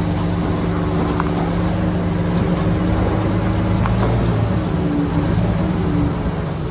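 Heavy diesel earthmoving engine running at a steady speed, an even low drone.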